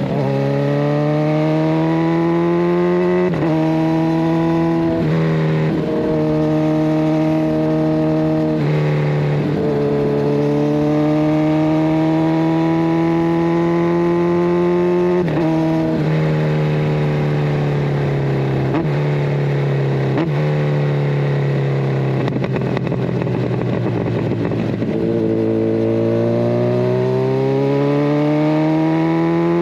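Kawasaki Ninja 1000SX inline-four running through a de-catted Scorpion Red Power exhaust, pulling up through the revs and dropping sharply at each of several gear changes. About three-quarters through, the note goes rougher and lower as the bike slows, then climbs again as it pulls away.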